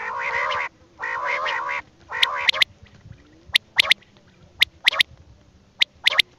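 Birds calling: three drawn-out nasal, quacking calls, then a run of short, sharp, high chirps, some in quick pairs.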